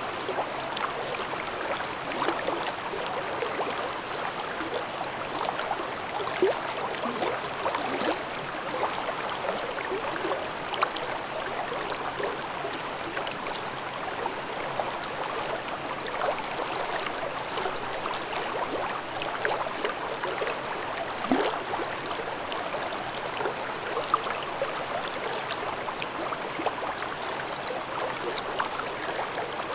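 Mountain stream babbling over rocks in a gorge: steady rushing water with small gurgles and splashes.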